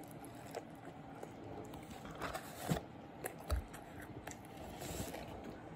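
A person biting into a bacon quarter-pounder burger and chewing it: irregular soft wet smacks and small crunches.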